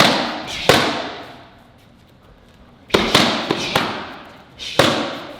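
Punches and kicks smacking on handheld karate kicking paddles. Two sharp smacks come at the start, a quick flurry of three or four about three seconds in, and one more near the end, each echoing briefly in the room.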